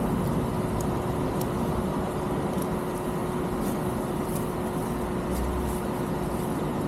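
UM Renegade Commando 125 motorcycle running along at a steady speed, its engine noise mixed with wind and road noise, with a steady hum throughout.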